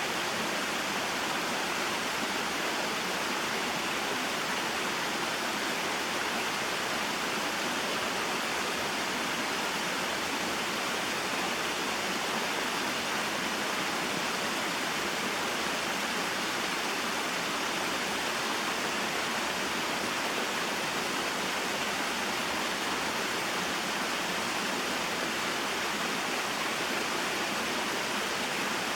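Small waterfall and mountain stream: water falling and flowing over rocks in a steady, even rush.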